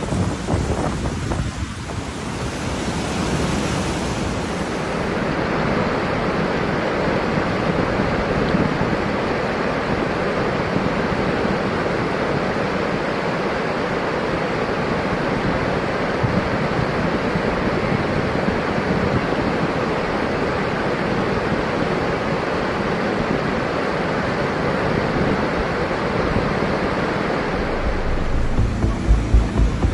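Floodwater rushing steadily, a dense even wash of water noise. A low throbbing beat comes in near the end.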